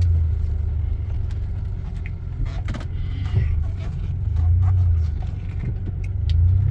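Strong storm wind buffeting the microphone: a low rumble that swells in gusts about three times, with faint scattered rustling and clicks.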